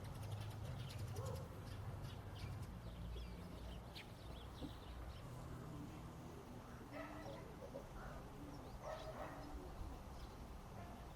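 Birds calling over a steady low background rumble, with short calls about seven and nine seconds in. A quick run of faint taps comes in the first couple of seconds, and a sharp single knock about four seconds in.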